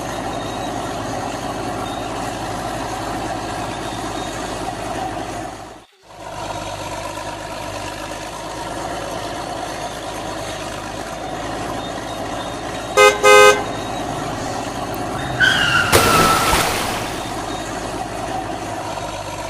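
Steady engine and vehicle noise, with a vehicle horn tooting twice briefly a little past the middle. Shortly after comes a louder burst of hiss with a falling squeal.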